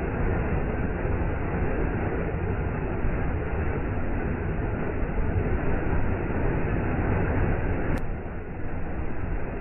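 Waterfall water rushing in a steady, even roar. About eight seconds in a brief click cuts across it and the rush becomes slightly quieter, as at a splice in the recording.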